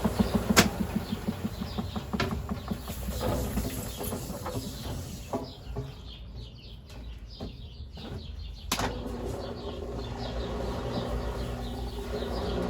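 Brastemp Ative 11 kg washing machine running its cycle. A rhythmic low pulsing at the start fades within about a second, and a quieter stretch follows with a few sharp clicks. After a click about nine seconds in, a steady hum with a low tone resumes.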